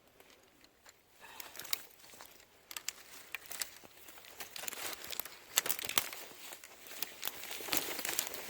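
Irregular crunching and crackling of footsteps pushing through dry, brittle undergrowth, starting about a second in and growing denser towards the end.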